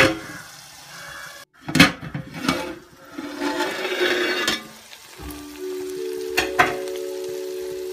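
Metal pot lid knocking as it is lifted off a pot of onion and tomato masala, which sizzles in the oil underneath. From about five seconds in, background music with steady held notes plays over it.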